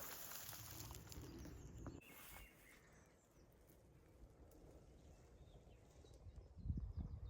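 Quiet outdoor ambience: footsteps and rustling through dry bracken for the first two seconds, then near stillness with a few faint bird chirps, and a few more heavy steps near the end.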